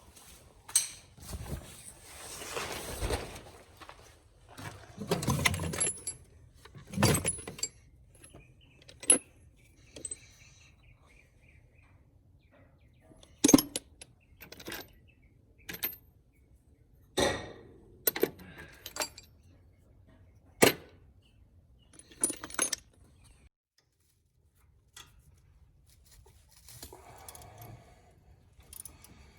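Metal hand tools clinking and clanking, irregular sharp clanks with short scraping stretches, as a wrench and socket work loose the shock absorber's mounting bolt on a car's rear suspension.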